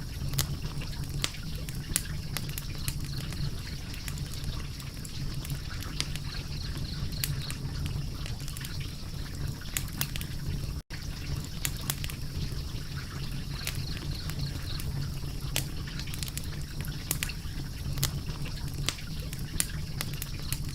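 Crackling fire: a steady low rumble of burning wood with frequent, irregular sharp pops and snaps. The sound cuts out for an instant about 11 seconds in.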